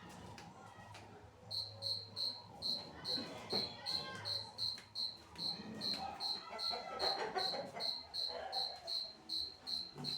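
Short high-pitched chirps repeating evenly, about two a second, typical of a chirping cricket.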